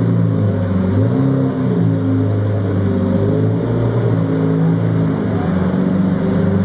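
Car engine running at low revs, a loud low rumble whose pitch rises and falls a little as it is lightly revved.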